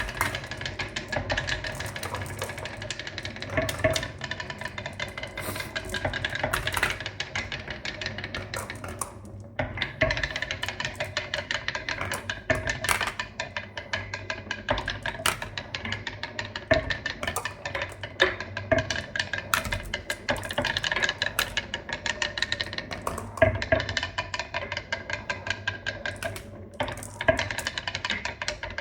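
Many marbles rolling and clattering down a marble run: a dense stream of rapid clicks and clacks, with a steady ringing tone underneath and a few louder knocks.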